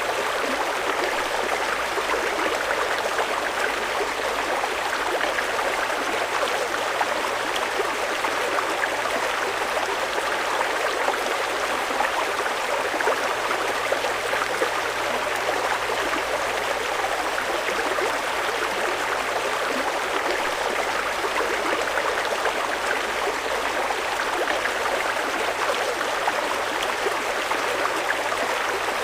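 Fast-flowing river water rushing over rocks, a steady, even rush of noise.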